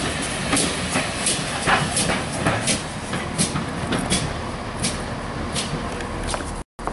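Railway train rolling slowly past, its wheels clicking over rail joints about once every 0.7 seconds over a steady rumble. The sound cuts out abruptly near the end.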